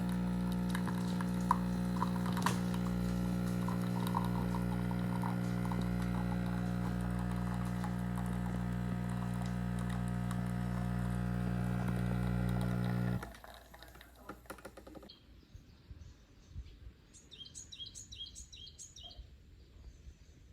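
A steady machine hum with a few light clicks, cutting off abruptly about two-thirds of the way through. After it, faint outdoor background with a small bird chirping a quick run of high notes near the end.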